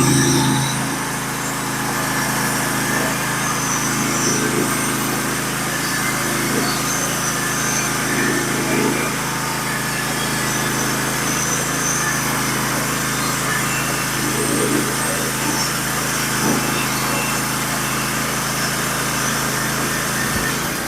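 Norwood HD36v2 portable bandsaw mill's gasoline engine running steadily at throttle as the band saw cuts through a scarlet oak log.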